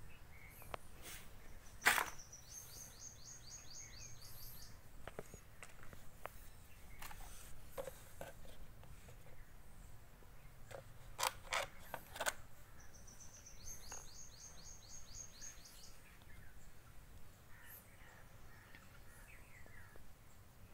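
A small songbird sings two high, rapid trills of evenly repeated notes, each lasting about two to three seconds and some ten seconds apart, over faint outdoor background noise. A few sharp clicks come through as well: the loudest about two seconds in, and a quick cluster of three about eleven to twelve seconds in.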